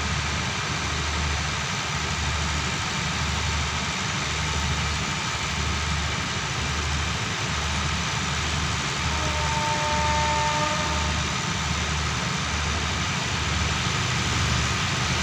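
Alsthom diesel-electric locomotive's MTU diesel engine running steadily, with a low throb pulsing a little more than once a second.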